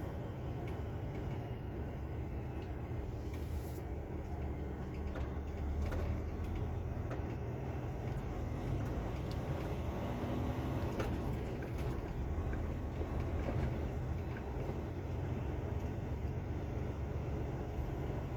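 Truck's diesel engine and road noise while driving: a steady low rumble, with a few faint clicks.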